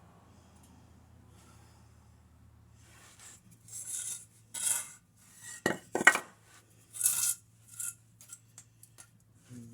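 Irregular metallic clinks, rattles and scrapes, like tools or metal parts being handled during work on a truck engine. They begin about three seconds in, with a sharp knock a little before the middle and smaller clinks toward the end.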